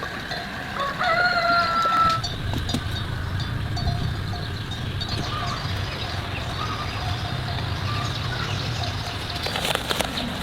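A rooster crowing, one long held call about a second in, with a few short chicken calls later, over a low steady rumble.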